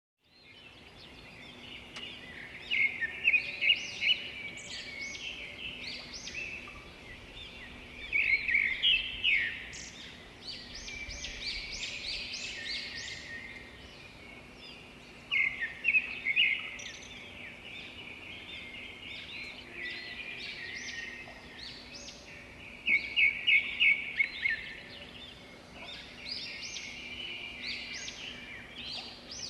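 Birdsong: repeated phrases of rapid, high chirping notes every several seconds, over a faint steady hum.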